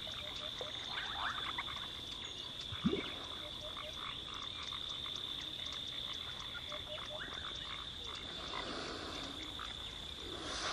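Frogs calling in a chorus: a steady high-pitched trill with many short clicks and calls over it, and one brief low rising call about three seconds in.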